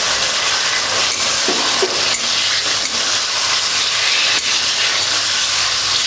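Marinated chicken pieces sizzling steadily in hot oil and spice paste in a metal kadai, with a metal spatula scraping and knocking against the pan as the chicken is turned.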